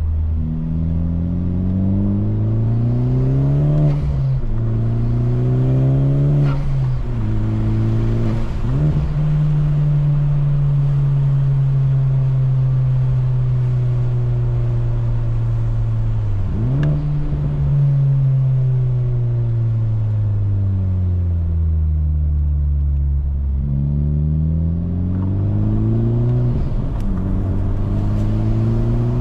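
Honda Civic Type R's K20 four-cylinder heard from inside the cabin through a new Injen stainless exhaust. It pulls up through the gears with three quick upshifts in the first nine seconds, cruises steadily, shifts again, then drops off as the car slows. Near the end it picks up again with two more upshifts.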